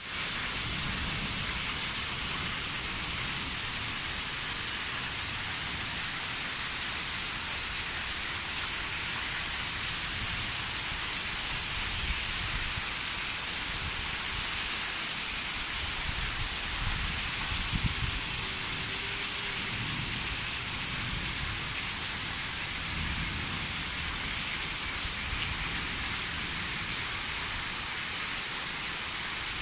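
Steady rain falling, a dense even hiss, with low rumbles coming and going underneath.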